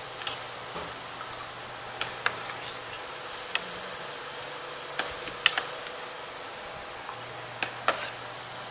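Short, sharp clicks and taps of someone eating, scattered irregularly, over a steady background hum and hiss with a high whine.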